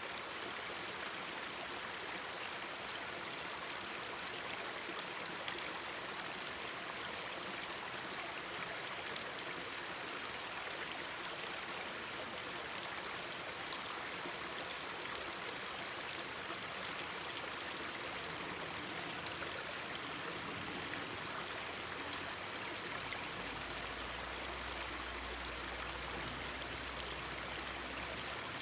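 Mountain stream babbling and rushing steadily over rocks. A low rumble joins for the last few seconds.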